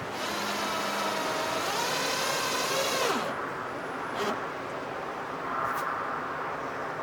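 A power drill runs for about three seconds, its pitch rising and then winding down as the trigger is let go. A click follows, then a shorter, fainter run.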